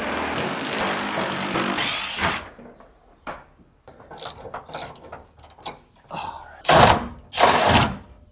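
Hand ratchet wrench clicking as fender bolts are turned out by hand. A continuous run of ratcheting for about the first two seconds, then scattered clicks and two loud rasping bursts near the end.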